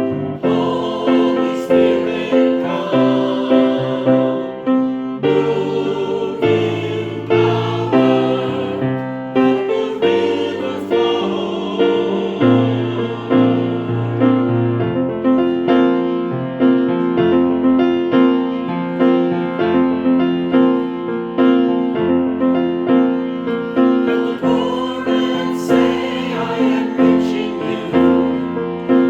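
Choir singing a worship song with piano accompaniment, in sustained chords with a steady pulse.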